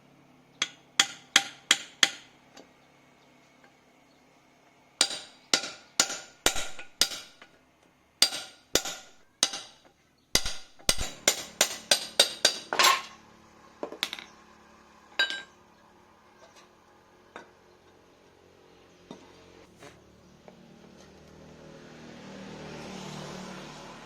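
Hammer tapping on metal in quick runs of about three to four sharp, ringing blows a second, four runs over the first dozen seconds, then a few single taps spaced a second or two apart.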